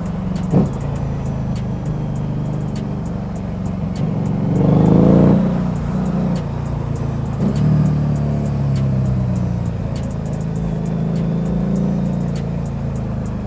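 Road vehicle engine running steadily in traffic. It revs up hard and rises in pitch about five seconds in, with shorter revs near the start and again about seven and a half seconds in.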